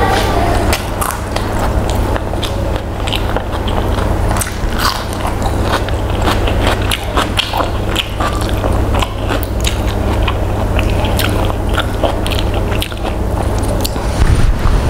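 Close-miked chewing of a mouthful of rice, with many quick wet clicks and smacks of the mouth, and fingers mixing rice on a plate. A steady low hum runs underneath.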